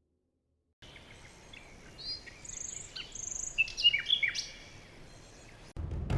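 Small birds chirping and calling over a faint outdoor background, a flurry of short high calls in the middle. Near the end a sudden loud, deep sound cuts in.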